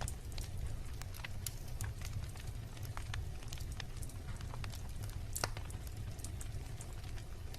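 Wood bonfire crackling: irregular sharp pops and snaps over a steady low rumble of burning, with one louder pop about two-thirds of the way through.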